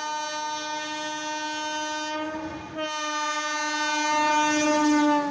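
A long, loud horn blast made of steady tones. It breaks off briefly about two and a half seconds in, then sounds again, its pitch sinking slightly near the end.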